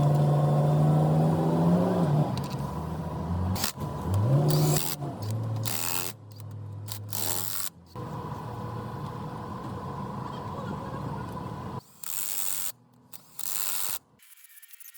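A diesel engine running with a steady drone, dropping and then briefly revving up about four seconds in before it stops. Near the end come two short bursts of loud hiss.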